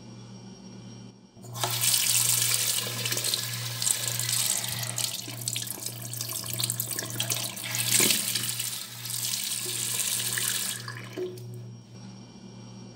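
Water running from a tap into a sink: it is turned on about a second and a half in, runs steadily with a little splashing, and is turned off near the end.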